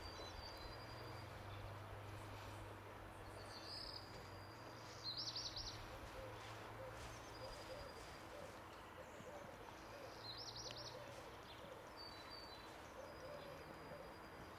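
Faint outdoor background with small birds chirping: short high calls, clearest about five seconds in and again about ten seconds in, over a low steady hum.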